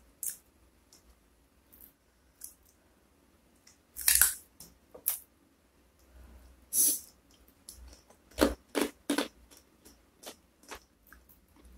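Close-miked chewing of fried fish, with fingers pulling the fish flesh apart. The sounds are scattered wet mouth clicks and smacks: the loudest cluster comes about four seconds in, and a quick run of three comes between eight and nine seconds.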